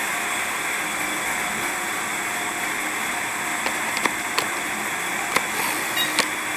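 Brushless-motor-driven gyro in an RC dirtbike spinning steadily, a constant whirring hiss with a faint high whine, having just been fired up. A few sharp clicks sound in the second half.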